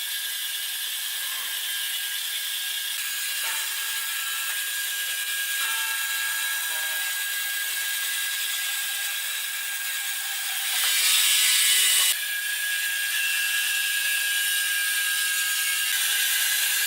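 Sawmill machinery running with a steady high-pitched mechanical whine and hiss. About two-thirds of the way in it grows louder and harsher for roughly a second, then drops back suddenly.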